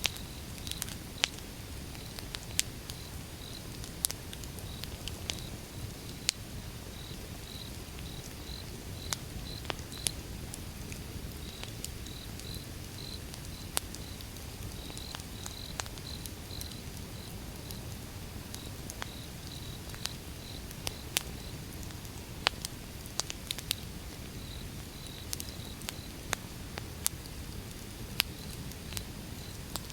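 Wood fire burning with a steady low rumble and irregular sharp crackles and pops from the burning logs. A faint high chirping repeats evenly throughout.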